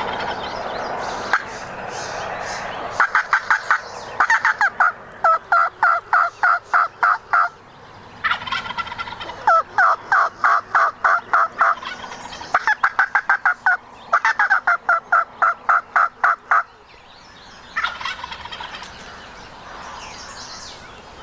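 Wild turkey calling in several loud series of rapid, evenly spaced notes, about six or seven a second, with short pauses between the series.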